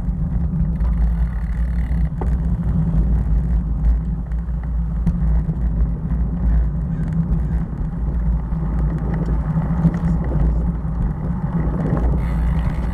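Steady low rumble of road travel: vehicle and wind noise on the move, with no distinct events standing out.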